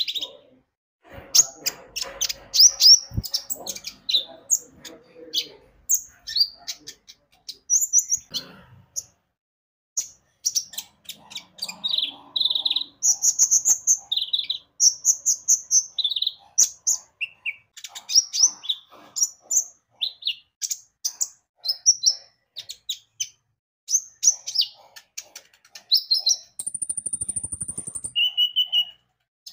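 Kolibri ninja (konin) sunbird singing a fast, busy string of high, thin chirps and twitters, with one longer, very high held whistle near the end. This is lure song, played to provoke other konin into singing.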